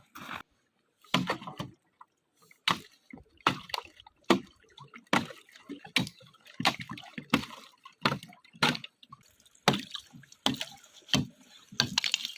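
Footsteps through snow and shallow spring water, a steady walking pace of about one step every three-quarters of a second.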